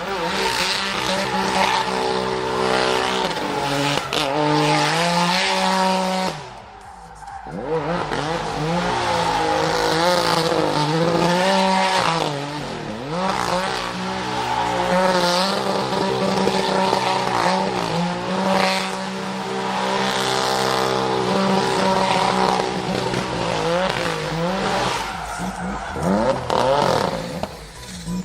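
A drift car's engine held at high revs, the pitch bouncing up and down, with tyres squealing as the car slides. About six and a half seconds in the engine note cuts out briefly before it picks up again.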